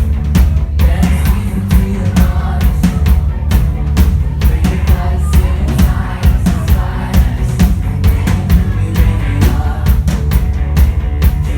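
Live pop-rock band music: a drum kit keeping a steady beat with kick and snare over heavy bass, with some singing.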